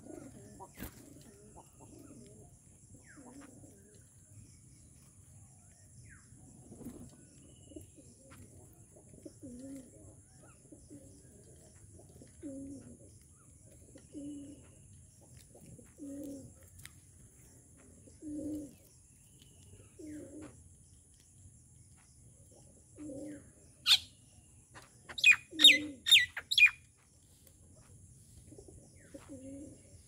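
A dove cooing faintly, one low note about every two seconds. Near the end, a loud burst of five or six sharp bird calls with clicks over about three seconds.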